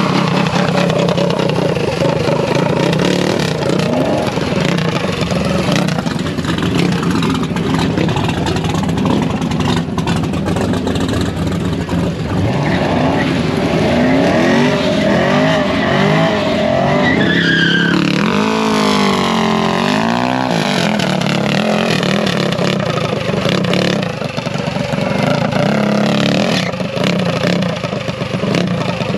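Engines running loudly under a steady drone, revving several times around the middle with the pitch rising and falling in sweeps.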